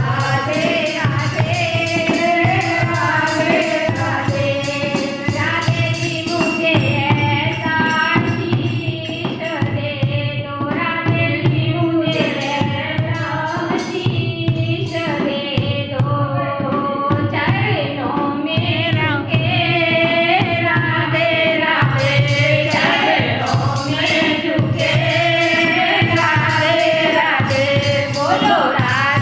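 Hindu devotional bhajan sung at a kirtan, with melodic singing over steady hand percussion keeping the beat. The high jingling percussion drops out for a while in the middle, then returns.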